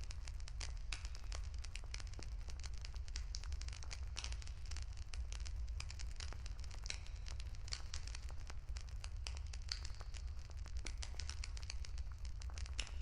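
Bonfire crackling: irregular sharp pops and snaps of burning wood, some close together, over a steady low rumble.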